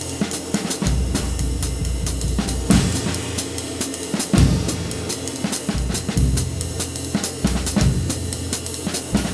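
Drum kit groove with bass drum and snare, the time kept in a steady even pattern on a handmade 20-inch B20 bronze flat ride cymbal of medium weight.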